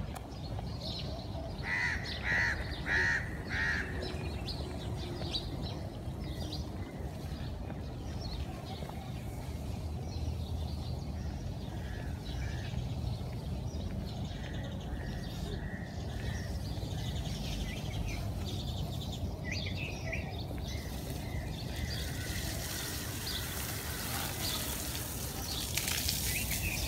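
A bird calls four times in quick succession about two seconds in, then gives a run of fainter, evenly spaced calls about halfway through, over a steady low rumble. Near the end a hiss of water spraying from a garden hose comes in and grows louder.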